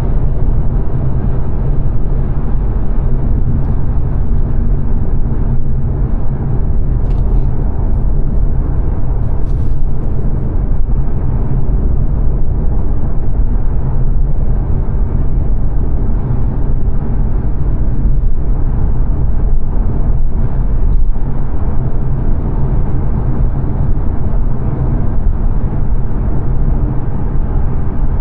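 Inside the cabin of a 2022 Mazda 3 saloon cruising on a motorway: a steady low rumble of road and tyre noise with engine hum.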